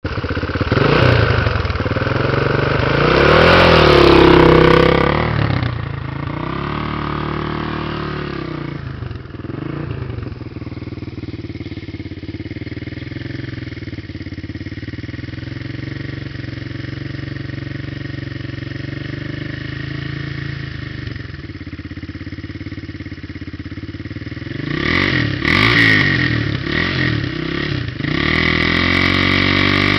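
Dirt bike engine revved hard for the first few seconds, blipped a few times, then idling steadily for about fifteen seconds before being revved up again near the end and held at high revs.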